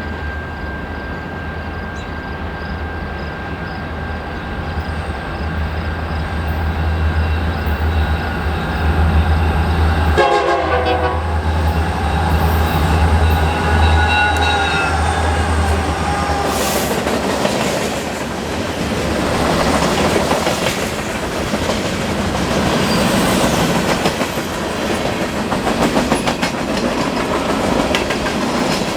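Diesel locomotive passing close by, its engine running with a steady low hum, then sounding its horn about ten seconds in for some five seconds. After that the train's cars roll past with wheels clicking over the rail joints.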